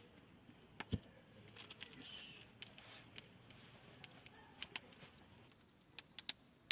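Faint crackling of a hardwood fire, with scattered sharp pops; the loudest pop comes about a second in and a few more near the end.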